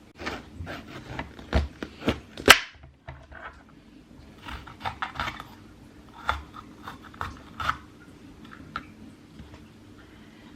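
Kitchen handling sounds: a run of light knocks, clicks and clatters, the loudest a single sharp knock about two and a half seconds in.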